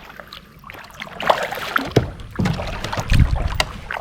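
Kayak paddling: paddle strokes swishing and splashing in the water from about a second in, with a few sharp knocks.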